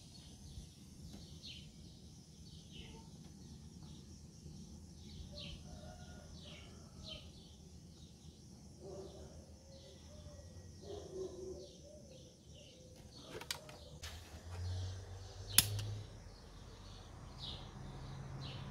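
Birds chirping steadily in the background: short falling chirps, about two a second. Two sharp clicks come in the last third, the second the loudest sound.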